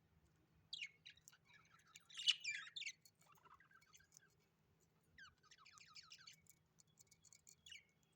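A bird chirping in two quick bouts of high twittering calls. The first starts about a second in and is loudest near the middle; the second, about five seconds in, is a rapid run of short falling notes.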